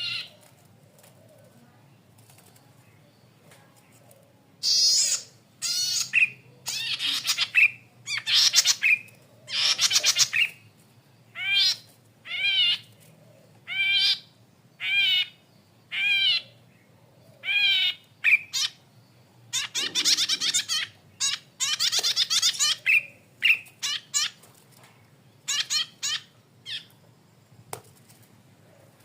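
Cici padi kepala merah (red-headed cisticola) calling: a series of short, harsh notes with a rising-and-falling pitch, about one a second, starting about five seconds in, with a denser run of notes about two-thirds of the way through.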